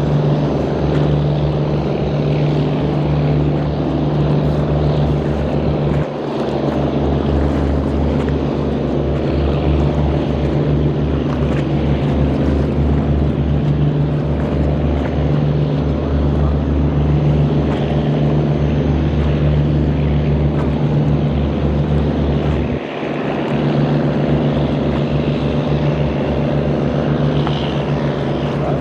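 Boat's engine running steadily at close range, a low pulsing hum, with two brief dips about 6 and 23 seconds in.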